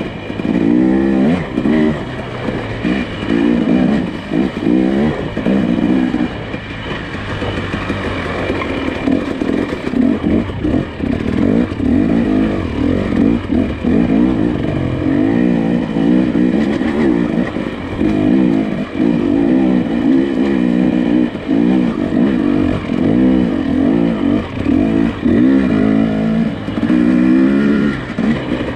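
Nissan Pathfinder's engine working on a rough off-road trail, its pitch rising and falling over and over as the throttle is worked.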